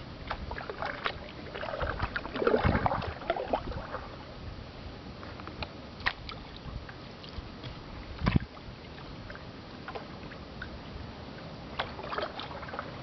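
Kayak paddling: paddle blades dipping and splashing in the water, with a few sharp knocks, the loudest about eight seconds in.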